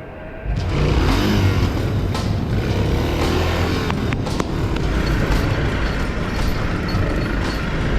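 Single-cylinder dual-sport motorcycle riding at speed, engine running under a heavy rush of wind noise, cutting in suddenly about half a second in.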